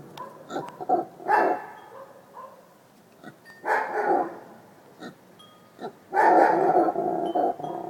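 Brown howler monkey calling with rough, barking roars in three bouts; the last, about six seconds in, is the longest and loudest.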